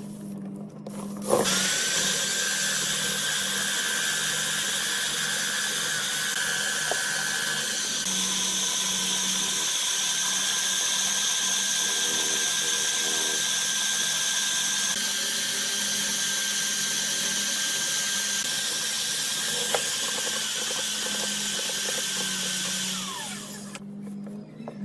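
An electric power tool starts up with a high whine, runs steadily for about twenty seconds and then winds down with a falling pitch.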